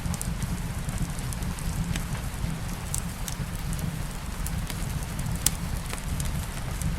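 Wood fire crackling and popping in a fireplace over a steady hiss of light rain, with a low rumble underneath. One sharp pop stands out about five and a half seconds in.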